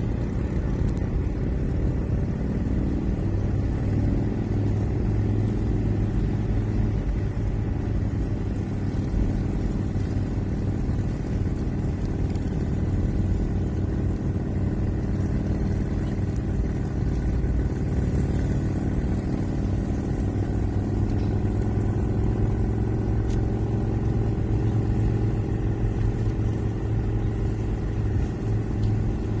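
Motorcycle engine running at a steady cruise, a continuous low rumble with no change in pitch.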